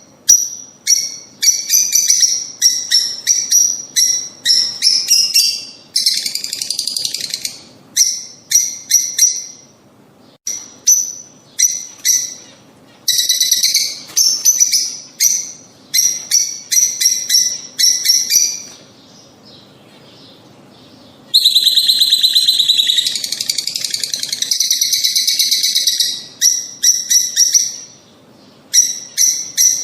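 Lovebirds chirping in quick series of sharp, high-pitched calls. After a short lull about two-thirds through comes a longer stretch of continuous chatter.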